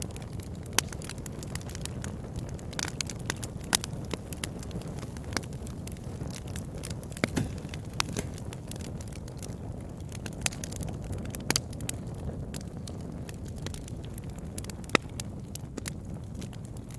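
Campfire crackling: a steady low rumble of burning wood with irregular sharp pops and snaps, a few louder ones standing out.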